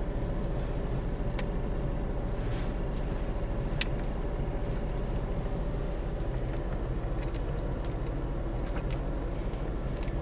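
Steady low mechanical hum, like an idling engine or air conditioner, with a few faint clicks and brief rustles of a burger's paper wrapper being handled.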